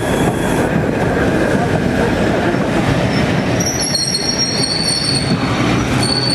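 Train hauled by the Peppercorn A1 Pacific steam locomotive Tornado on the move, a steady rumble of wheels on rails. About three and a half seconds in, the wheels start to squeal on the rails for a couple of seconds.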